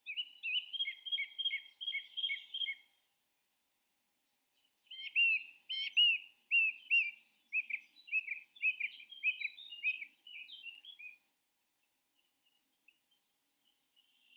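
A songbird singing: a quick run of repeated chirping notes for about three seconds, then after a short pause a longer, faster run of about six seconds.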